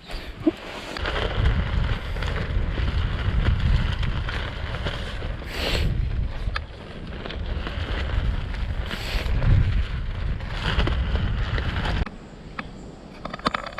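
Strong gusting wind buffeting the microphone, rising and falling in surges, with a couple of sharp snaps in the middle; it drops off suddenly near the end.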